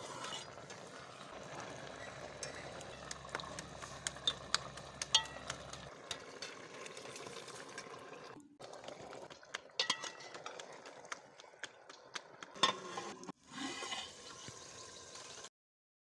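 Spoon stirring in a cooking pot, with scattered sharp clinks of metal on metal over a steady hiss. The sound breaks off briefly twice and stops abruptly near the end.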